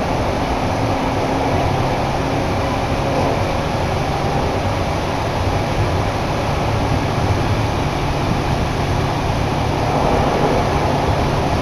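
Chichibu Railway electric train running between stations, heard from inside the carriage: a steady rumble of wheels on the rails with a low hum underneath.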